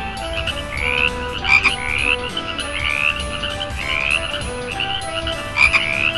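A frog croaking over and over, each call a short upward-sliding croak, about one a second.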